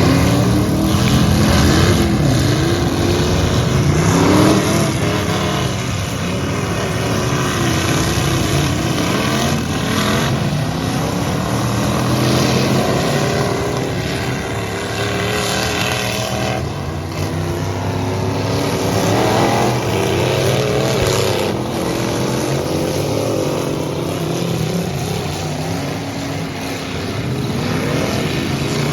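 Engines of several full-size pickup trucks in a demolition derby, revving up and falling back over and against one another, with a few sharp bangs among them.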